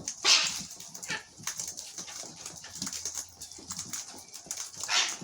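Wild cockatoos feeding on seed, giving harsh squawks: a loud one about a quarter second in and another near the end, with small scattered clicks between.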